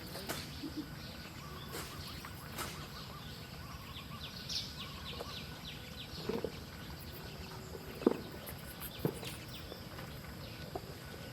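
Outdoor ambience with small birds giving scattered short chirps, including a quick run of high chirps about four to six seconds in. A few sharp knocks stand out, the loudest about eight seconds in.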